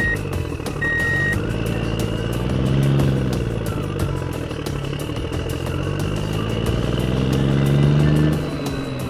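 Truck engine running and revving up twice, rising and falling in pitch each time. A reversing beeper sounds twice early on.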